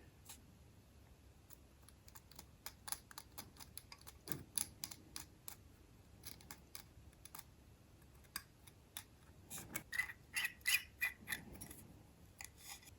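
Irregular small clicks and short light scrapes of a hand tool working over a small soldered photo-etched metal part, cleaning off excess solder.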